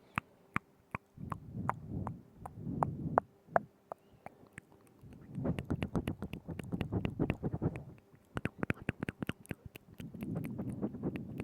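Close-miked ASMR mouth sounds: wet tongue clicks and smacks, some single and some in quick, dense runs.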